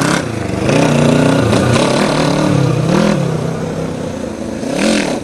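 Motorcycle engine of a go-kart revving up and down several times as the throttle is jabbed, spinning the tires on gravel. The engine is very sensitive to the throttle, described as "so touchy".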